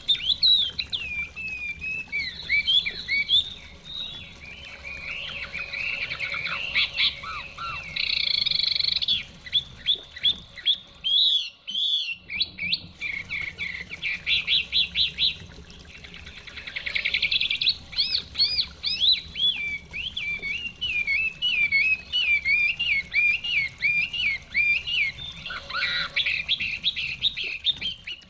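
Chinese hwamei singing: a loud, continuous, varied song of whistled phrases, quick runs of repeated notes and trills, with a brief break partway through.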